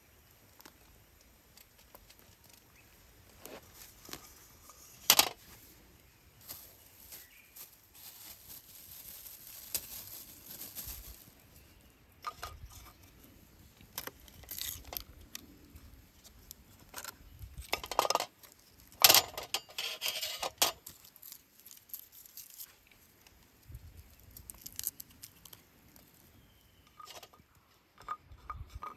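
Things being handled at close range: irregular clicks and knocks with bursts of rustling, two sharper knocks about five seconds in and near the middle.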